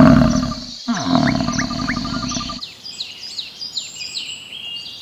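Spliced animal calls: a cow's moo trails off, then after a short break a deep call falls in pitch under a few rising chirps, and a little past halfway it cuts to birds chirping with quick, high, falling notes.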